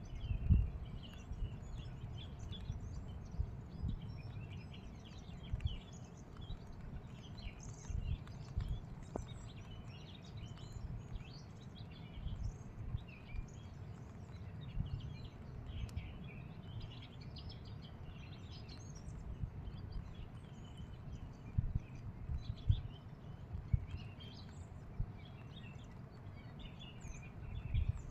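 Many small birds chirping and twittering throughout, over a steady low rumble with irregular soft thumps underneath.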